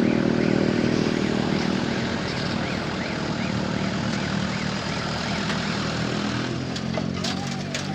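Heavy truck's diesel engine running steadily, with a faint high chirp repeating about twice a second. A few sharp clicks come near the end.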